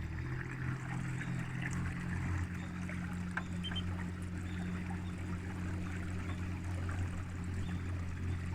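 A motor running with a steady low drone, over the grainy sound of moving water with small splashes and trickles.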